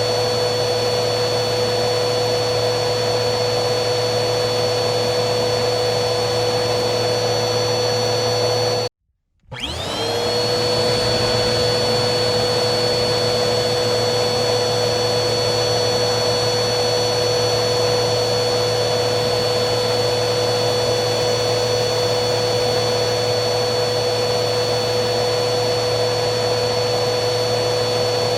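Vacuum cleaner running steadily, a dense rushing noise with a constant motor whine. About nine seconds in it cuts out abruptly for half a second, then the whine rises back up to speed within a second and runs steady again.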